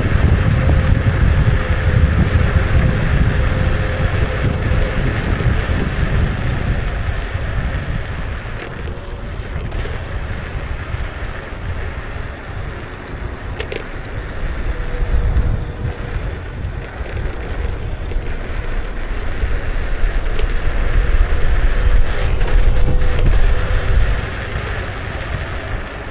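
Wind rushing over an action camera's microphone, with tyre and road rumble, while riding a Kukirin G2 electric scooter. The noise eases about halfway through and swells again near the end, with a few light clicks and a short high beep.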